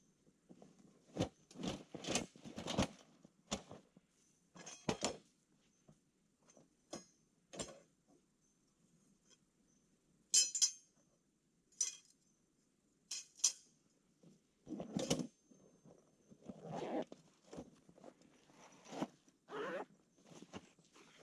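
Irregular clinks, knocks and rustling of camp gear being handled, a dozen or so separate short sounds with pauses between them.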